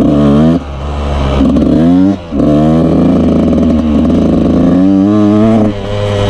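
Yamaha YZ125 two-stroke dirt bike engine revving hard through a run of rising pulls, the pitch dropping sharply between them as the throttle shuts or it shifts. It settles to a steadier, lower note near the end.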